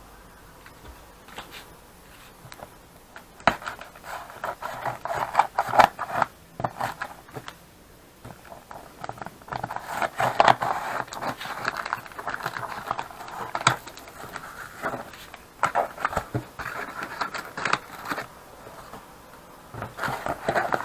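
Handling noises: irregular scraping and rattling with scattered sharp clicks, coming in uneven bursts with short lulls, as the welding inverter and its packaging are handled.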